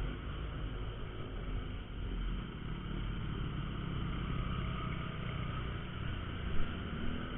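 Honda Verza 150's single-cylinder engine running at low speed in traffic, under a steady hiss of wind and road noise. The engine's pitch rises a little near the end, and there is a brief thump about six and a half seconds in.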